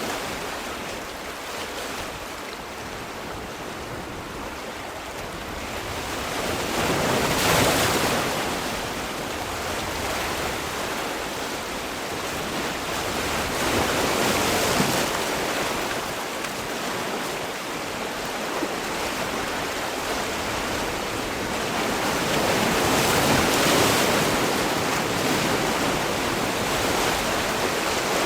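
Sea waves breaking, a continuous wash of surf that swells louder as each wave comes in, three times several seconds apart.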